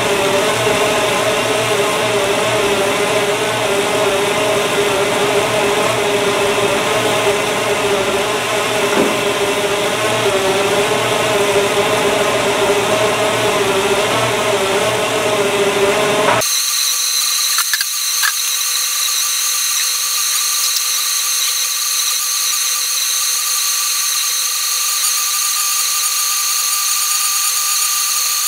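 Newly rebuilt 350 small-block Chevy V8 running at a steady speed, with a steady whine over it. About sixteen seconds in the sound changes abruptly: the low rumble drops out and only a steady high whine remains.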